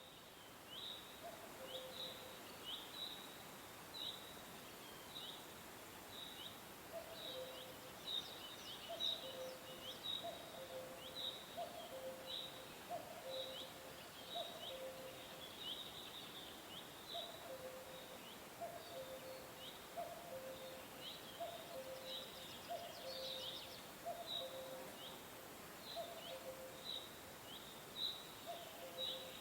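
Birds singing: short, high, downward chirps repeating about once or twice a second, over a lower two-note call, high note then low, that repeats in bouts about once a second, with a steady background hiss.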